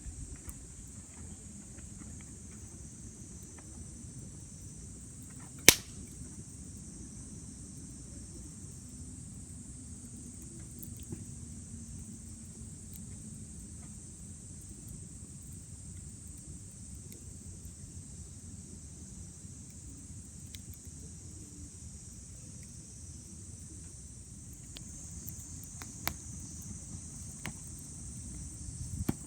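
Campfire burning, with one loud sharp pop of the wood about six seconds in and a few lighter crackles near the end, over a steady high chorus of night insects.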